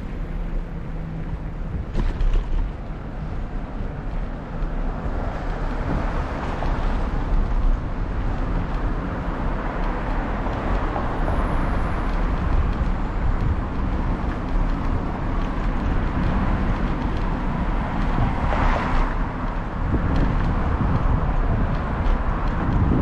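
Wind buffeting the microphone of a camera on a moving bicycle, a steady low rumble with road noise. A brief louder whoosh comes a little over three-quarters of the way through.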